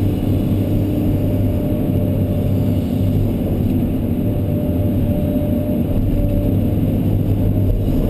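Kobelco SK210LC excavator's diesel engine running steadily, a continuous low drone that holds an even level throughout.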